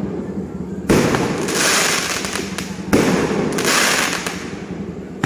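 Aerial fireworks bursting: two loud bangs about two seconds apart, each followed by a long crackling, sizzling tail as the shell breaks, with another bang right at the end.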